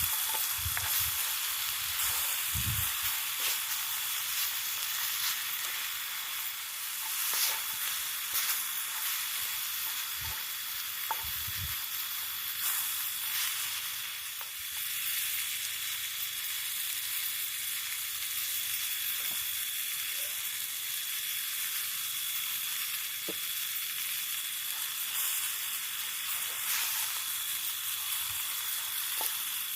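Food sizzling and frying in a pan, a steady hiss broken by occasional clicks and soft knocks, as from stirring.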